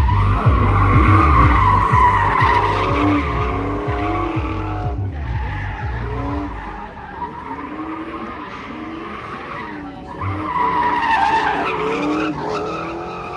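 Drift car sliding with its tyres squealing, engine running hard underneath. The squeal wavers in pitch, eases off around the middle and swells again near the end.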